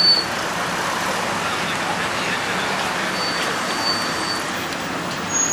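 Steady street noise with road traffic running.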